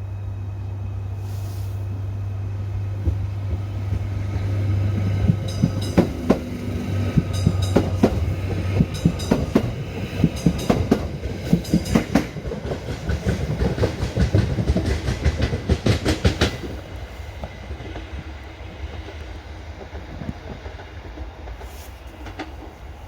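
Train passing at close range, its wheels clattering over the rail joints in a quick run of sharp clicks from about three to sixteen seconds in, with a steady low hum in the first half.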